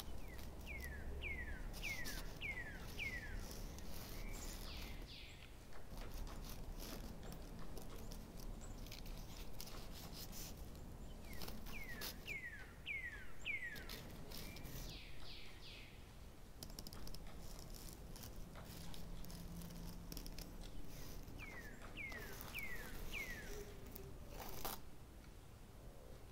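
A small bird singing a short phrase of about five quick down-slurred whistles, repeated three times roughly ten seconds apart, over a faint background with scattered light clicks.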